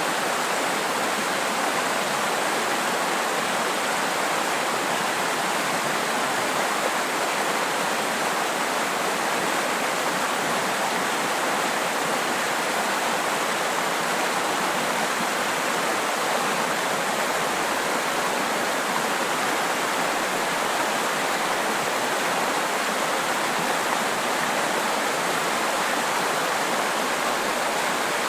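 Clear snowmelt mountain river flowing in a shallow, steady rush, an even and unbroken sound of running water.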